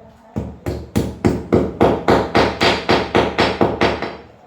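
Hammer blows struck in a quick, even run of about four a second, growing louder and then stopping near the end.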